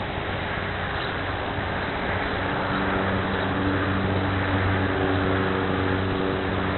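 A motor or engine running steadily with a low hum over background noise. The hum swells about two and a half seconds in and eases off near the end.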